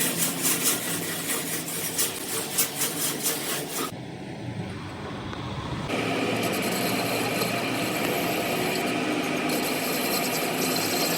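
Metalworking tool noise: rasping strokes in quick succession for about four seconds. After an abrupt change, a steady machine noise with a faint whine runs on.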